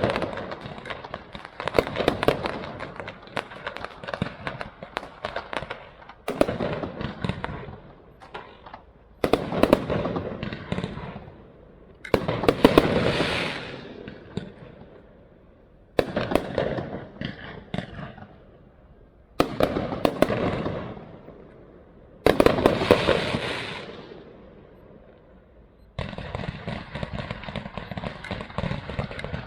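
Aerial fireworks bursting, a loud report every few seconds, each followed by a crackling tail that dies away. Near the end the separate bursts give way to a steady, even noise.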